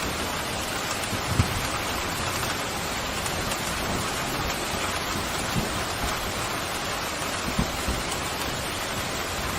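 Steady heavy rain, an even continuous hiss, with a few brief low thuds about a second and a half, five and a half and seven and a half seconds in.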